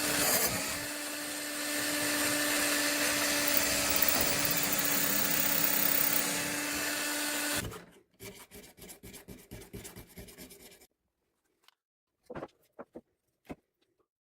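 Electric drill running steadily with a drill bit cupping the ends of brass handle pins; it cuts off suddenly about three-quarters of the way through. A quick rhythmic rubbing, about seven strokes a second, follows for a few seconds, then a few light clicks near the end.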